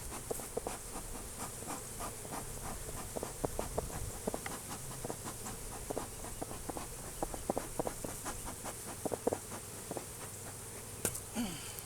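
Honeybees from an opened hive buzzing around in numbers, a colony stirred up by the inspection. Many short clicks and taps sound over the steady hum.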